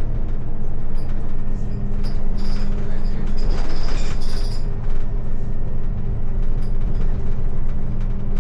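Steady low engine drone of a motor vehicle, heard from inside it, with faint high ticks about four seconds in.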